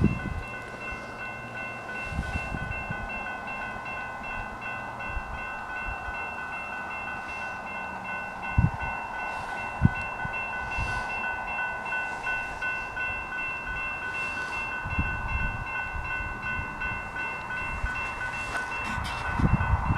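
Railroad grade-crossing bell ringing steadily with an even pulse as a train approaches, while a low rumble of the oncoming train builds toward the end. Wind gusts buffet the microphone, and there are two sharp knocks around the middle.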